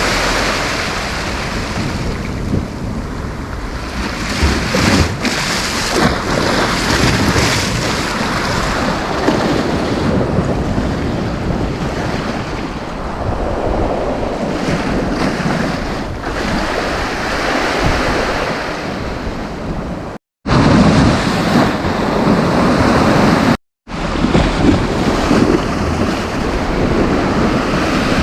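Sea waves breaking and washing in, surging and easing, with wind buffeting the microphone. The sound cuts out completely twice for a moment near the end.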